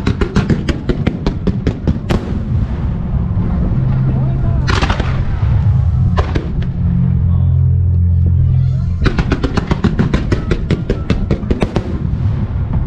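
Music-synchronised fireworks display (starmine): rapid volleys of sharp firework shots, about six or seven a second, in a run at the start and another in the last third, with two single bursts between, over loud music.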